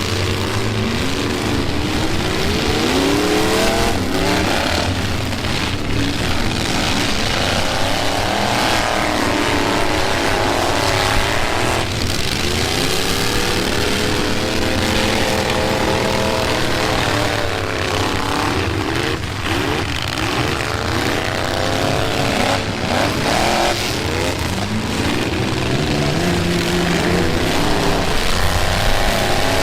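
Several pickup truck engines revving up and down at once, their pitches rising and falling as they drive into each other, with occasional dull crashes of collisions.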